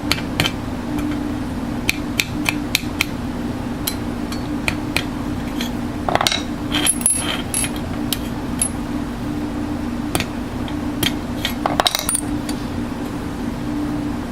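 Light metallic clinks and taps of small steel parts being handled against one another, scattered throughout and busier around the middle and again near the end, some with a brief high ring, over a steady low hum.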